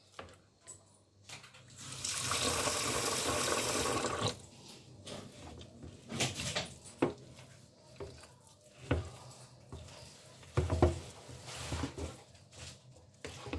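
Water poured into a bowl of fufu flour and starch batter, a steady pour of about two seconds starting about two seconds in, thinning the batter because it was too thick. After that come scattered knocks and scrapes as the batter is stirred in the bowl.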